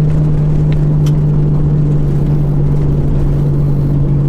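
Nissan R33 Skyline GT-R's RB26 twin-turbo straight-six running at a steady cruise: an even engine drone with low road rumble beneath.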